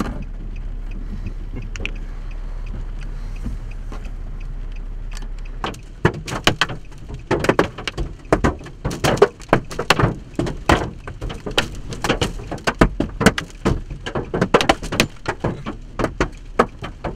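A steady low hum, then from about six seconds in, hailstones striking hard and fast in dense, irregular sharp hits, with wind-driven rain.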